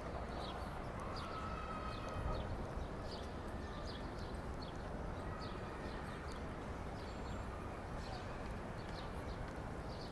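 Small birds chirping in quick repeated short calls over a steady hum of city and park noise.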